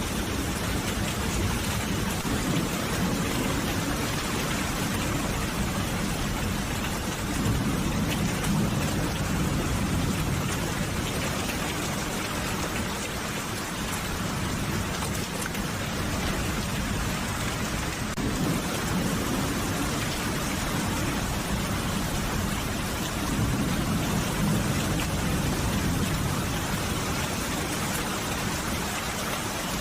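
Steady rain falling in a dense, even patter, with a low rumble that swells up twice and dies back.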